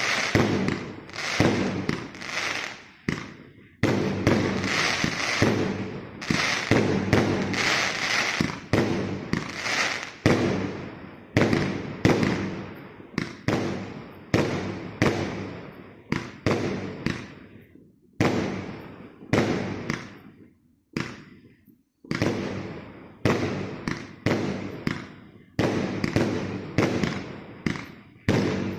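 Consumer fireworks cake (multi-shot salute battery, 'Tankisty' PKU891) firing shot after shot, a sharp bang about every half second to a second, each dying away quickly. The shots thin out and nearly stop for about four seconds past the middle, then the firing picks up again.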